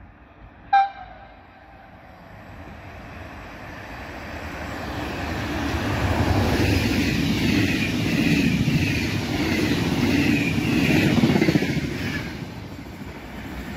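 Regional train hauled by an FS E464 electric locomotive running past the platform: a rumble that builds from about two seconds in, is loudest with a regular rhythmic clatter of wheels as the carriages go by, then fades near the end. About a second in, a short, loud, high tone sounds once, like a horn.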